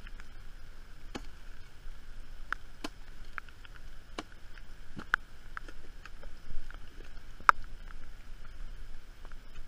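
Raindrops plinking into water, falling irregularly as scattered single drips over a faint steady hiss, with a couple of louder drops about two-thirds of the way in.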